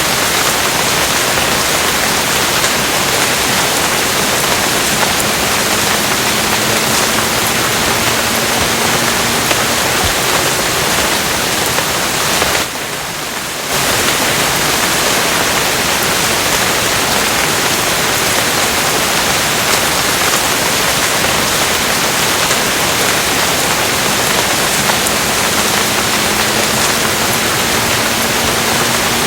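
Steady heavy rain, a dense even hiss, with a brief dip in level about thirteen seconds in. A faint low tone rises slowly beneath it twice.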